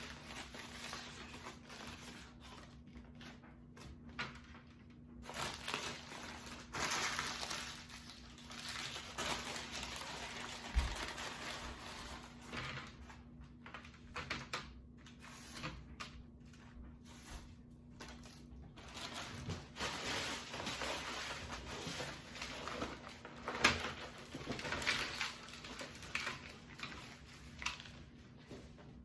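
Irregular rustling, crinkling and light knocks of takeout food packaging and other items being handled and set out, over a faint steady hum.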